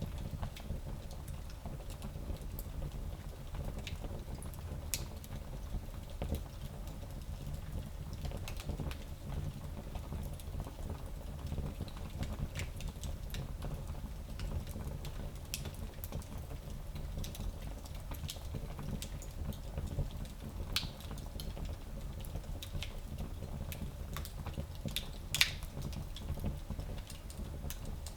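Small fireplace fire crackling: scattered sharp pops and snaps over a low steady rumble, with one louder pop near the end.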